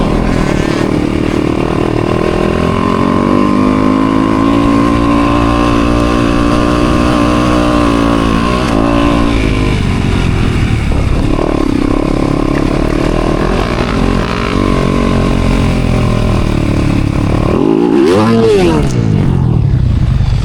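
Honda CRF250R four-stroke motocross bike engine being ridden hard, its pitch rising, holding and dropping as the throttle is opened and closed, with a sharp rev up and down about 18 seconds in.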